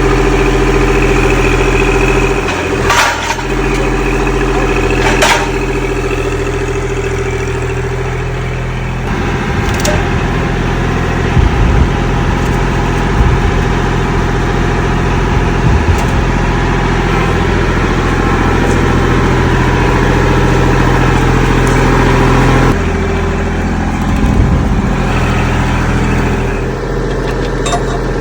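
Vehicle engine running steadily, its speed changing about a third of the way in and again near the end, with a couple of sharp clicks in the first few seconds.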